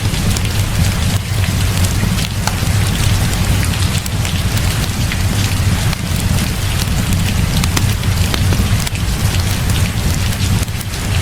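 Heavy rain pouring steadily, with a constant low rumble underneath and scattered sharp ticks throughout.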